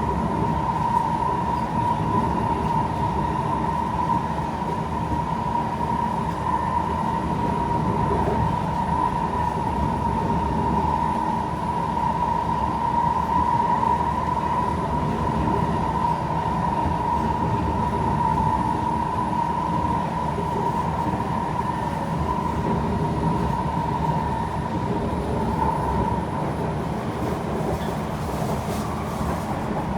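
Kawasaki C151 metro train running at speed, heard from inside the car: a steady rumble of wheels on the track with a steady high whine.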